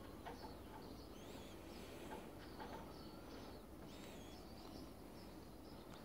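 Faint, scattered chirps and short whistled calls of small birds, over a low steady background hum.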